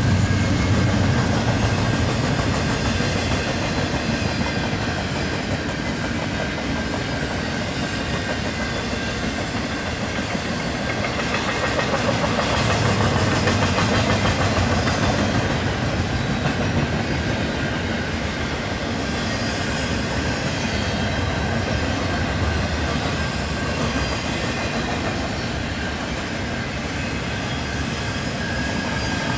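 Double-stack intermodal container train of well cars rolling past at steady speed: a continuous rumble and rattle with wheels clicking over the rail joints.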